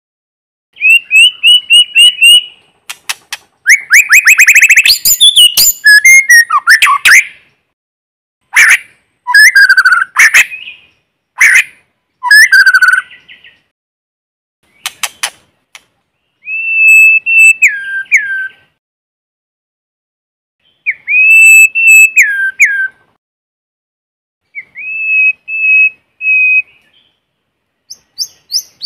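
White-rumped shama singing its challenge song in separate phrases with short silent pauses between them. The phrases mix clear held whistles, some ending in a sharp drop in pitch, with fast chattering runs and very high thin notes.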